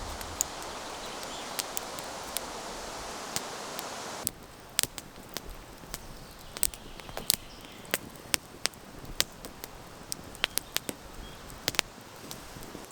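Scattered raindrops starting to fall, landing one by one as irregular sharp ticks. A steady hiss underneath drops away suddenly about four seconds in.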